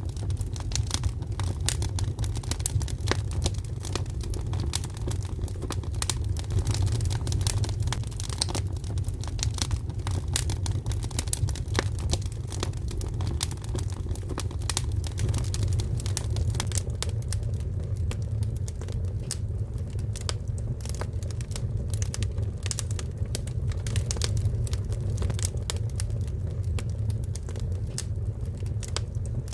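Oak firewood burning, crackling with a dense, irregular run of sharp pops over a steady low rumble.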